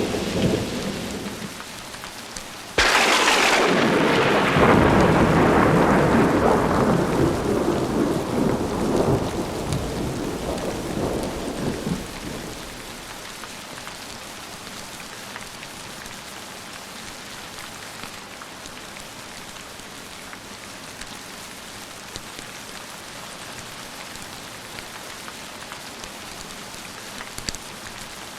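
Heavy rain falling steadily, with thunder. An earlier rumble fades at the start, then a sudden loud thunderclap about three seconds in rolls on and dies away over some ten seconds, leaving only the steady rain.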